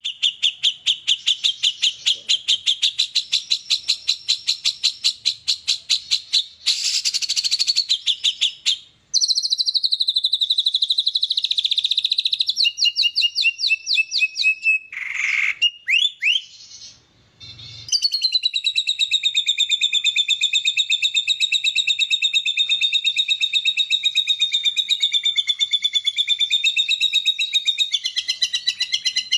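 White-rumped shama (murai batu) singing: long runs of fast, repeated high notes, several per second, broken by brief pauses about a third of the way in and again a little past the middle.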